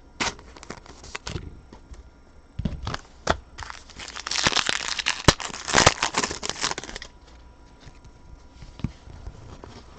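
A trading card pack's foil wrapper being handled and torn open, with a dense crinkling from about four to seven seconds in. Before it come a few sharp clicks and rustles, and after it quieter shuffling.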